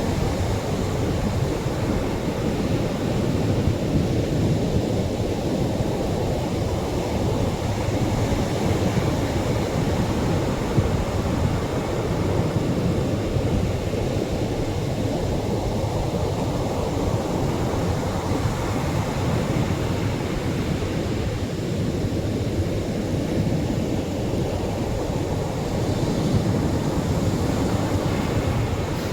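Gentle Atlantic surf breaking on the shore: a steady, low-pitched rush of waves with only slight swells in loudness.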